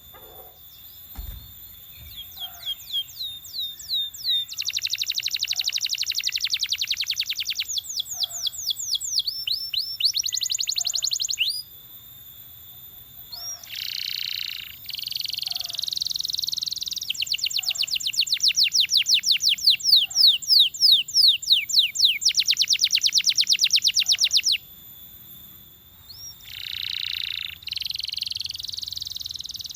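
Belgian canary singing: phrases of a few seconds each, separated by short pauses. The phrases are fast trills of repeated sweeping notes, around ten a second, alternating with buzzy rolls.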